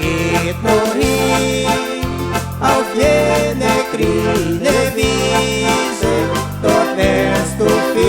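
Instrumental passage of a German-style dance band: a bandoneon or accordion plays the melody over a steady oom-pah bass in a regular beat.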